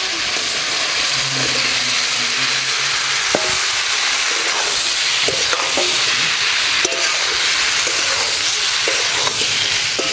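Spiced masala sizzling steadily in a kadai as fried potato and papaya pieces go in and are stirred, with the metal spatula scraping and clinking against the pan now and then.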